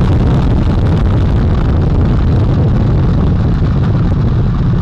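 Artemis 1 Space Launch System rocket's four RS-25 core-stage engines and two solid rocket boosters firing seconds after liftoff: a loud, steady, deep rumble.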